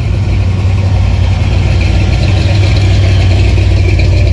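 Custom Chevrolet truck's engine running with a loud, steady low rumble, growing slightly louder toward the end.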